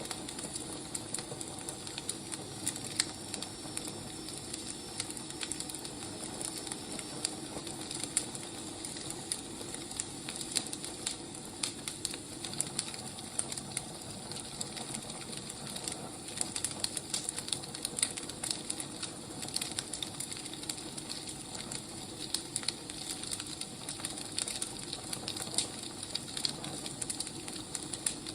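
Burning firewood crackling: a steady hiss with many small irregular pops and snaps.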